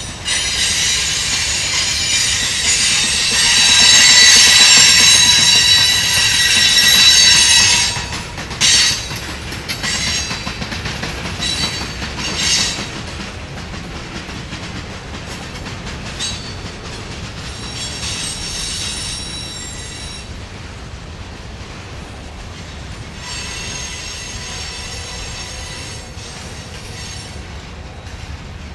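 Freight train of boxcars rolling past, its steel wheels squealing in high ringing tones over a steady low rumble. The squeal is loudest for the first several seconds, then fades. It comes back in shorter spells later, with a few sharp knocks from the cars in between.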